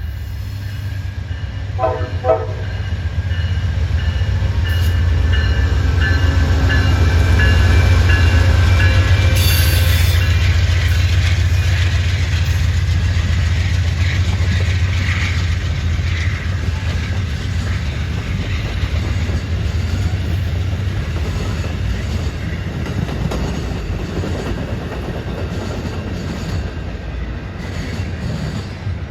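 Amtrak passenger train passing: a heavy diesel locomotive rumble that builds to its loudest about eight seconds in and then slowly fades as the cars roll by, with wheels clicking over the rails. A short horn toot sounds about two seconds in.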